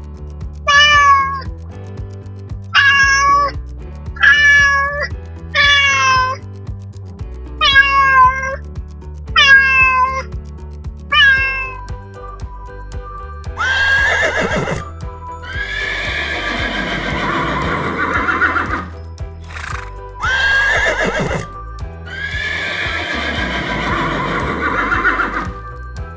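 Recorded animal calls over children's background music: a string of about eight short calls, each falling in pitch, then two long horse whinnies, each rising sharply and then quavering down.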